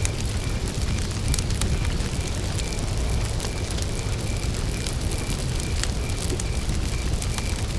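Campfire of burning wood with a low steady rumble and scattered sharp crackles and pops. A cricket chirps evenly a few times a second in the background.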